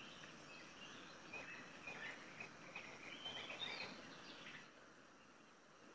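Faint natural ambience with scattered soft, short bird chirps, dropping to a quieter hiss about four and a half seconds in.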